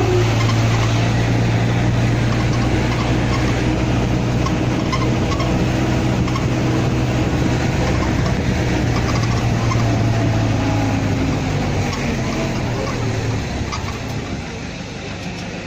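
A motor vehicle running steadily, its low engine hum under an even rush of road and wind noise. The hum and the loudness ease a little near the end.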